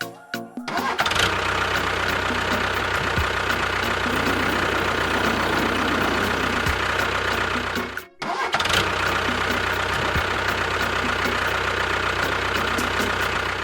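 An engine running steadily. It starts about a second in, cuts out briefly near eight seconds, then runs on.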